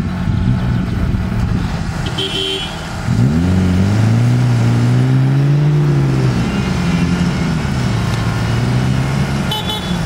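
Off-road vehicle's engine running, then revved hard about three seconds in and held at high revs, rising and falling a little, while working under load through boggy grass; it eases off near the end.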